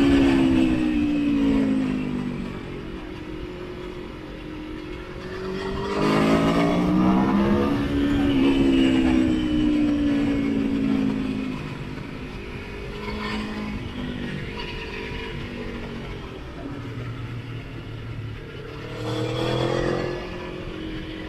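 Sport motorcycle engine under way, pulling hard and easing off in turn: loud at the start and again for several seconds from about six seconds in, with a quieter, lower engine note between and a fresh pull near the end.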